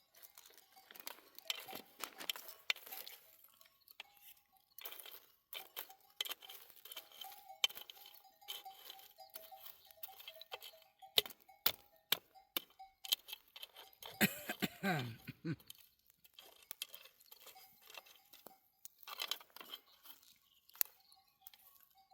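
Livestock neck bells on a grazing flock of sheep and goats, clinking and ringing irregularly as the animals move. A single falling bleat comes about two-thirds of the way through.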